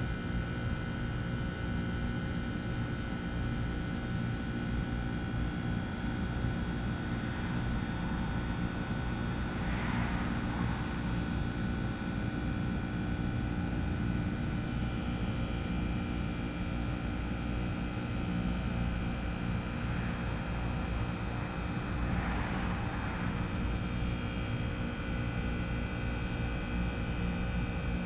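2012 Trane XR13 2-ton heat pump outdoor unit running during its defrost cycle: a steady mechanical hum with several constant tones. Two soft hissing swells rise and fade, about ten seconds in and again a little past twenty seconds.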